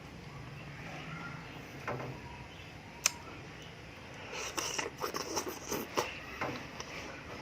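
Close-up eating sounds of a person chewing aloe vera with sugar. A single sharp click comes about three seconds in, then from just past halfway a quick, irregular run of clicks and smacks.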